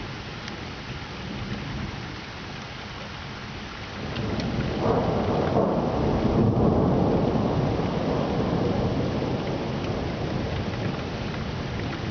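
Steady rain falling through a thunderstorm. About four seconds in, a long rumble of thunder swells up and slowly dies away under the rain.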